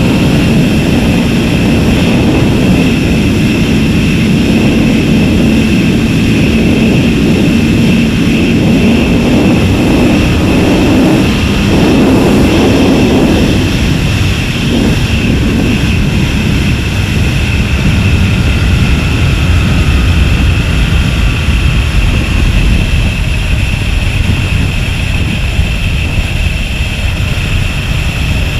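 A motorcycle ridden at speed: heavy wind noise buffeting the microphone over the steady note of an Aprilia RSV's V-twin engine. The engine note swells briefly about halfway through.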